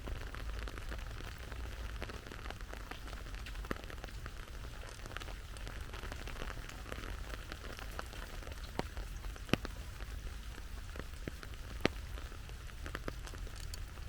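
Steady autumn rain falling, with a constant hiss and many scattered drops tapping close by. Two drops land louder, about halfway through and again a few seconds later.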